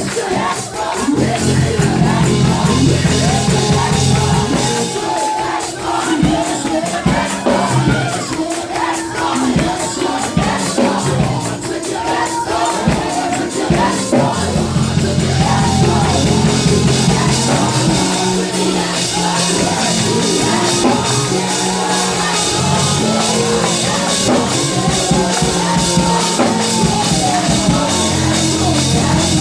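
Live gospel praise-and-worship music: a band plays sustained low chords over steady percussion while the congregation sings and shouts along.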